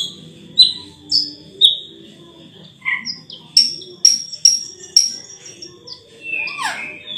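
Raja perling (Sulawesi myna) singing: a run of short, sharp, falling whistled notes about twice a second over a thin steady high tone, then a long note sliding steeply downward near the end.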